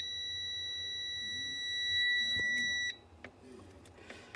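Multimeter continuity beeper sounding one steady high beep for about three seconds, then cutting off suddenly. The probes across the freezer's defrost heater show a closed circuit, which means the heater element is good.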